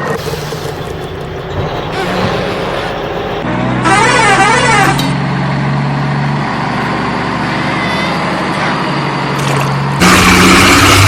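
Cartoon vehicle sound effects: a steady engine-like drone with a short wavering horn-like tone about four seconds in, and a louder burst of vehicle noise near the end.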